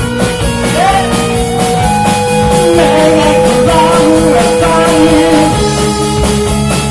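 Rock band playing live: electric guitar and drums, with a melody line that holds a long note, then bends and wavers between notes.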